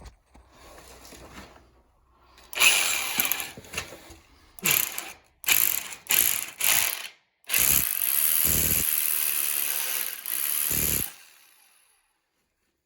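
Power drill running in several short bursts, then a steady run of about four seconds that cuts off suddenly.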